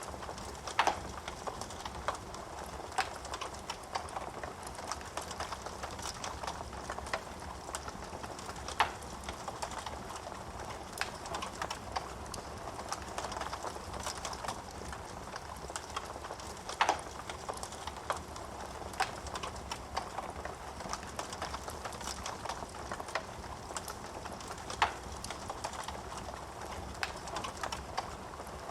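Wood fire burning in a fireplace: a steady hiss of flames with frequent small crackles and a few louder, sharp pops of burning wood.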